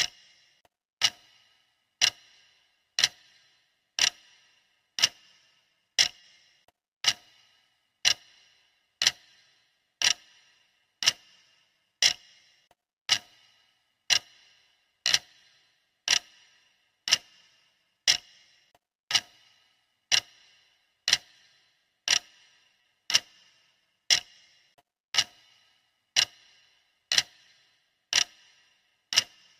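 Clock ticking steadily, one tick a second, each tick a sharp click with a short ringing tail.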